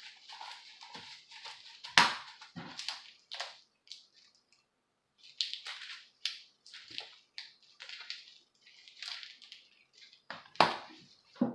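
Irregular scraping, rustling and sharp clicks from hands working on the clock's parts, with a brief pause near the middle and a few louder clicks near the end.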